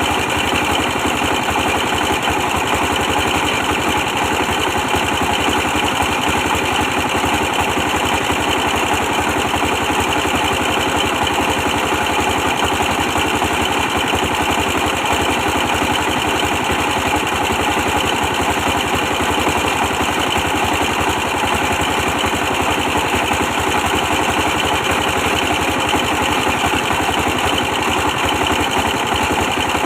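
A 24 hp stationary diesel engine running at a steady speed with a fast, even firing beat, driving a brick press machine.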